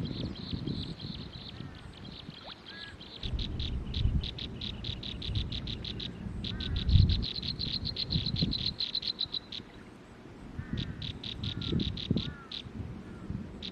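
Forest wildlife chorus: a high, rapidly pulsed trill that runs in stretches and breaks up into separate pulses several times, with a few faint short bird chirps and low rumbling bursts underneath.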